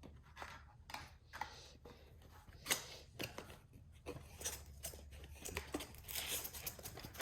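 Seal being broken on a toy's cardboard box: a string of sharp clicks and snaps, then a denser rustling and scraping as the box end is worked open.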